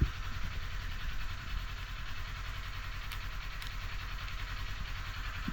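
Kawasaki Z400's parallel-twin engine idling steadily once warmed up, with a single sharp tap right at the start.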